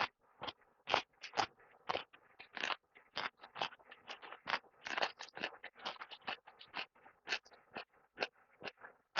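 Close-up crunching, crackling and scraping from eating a snack and handling its food container: irregular sharp crackles, three or four a second.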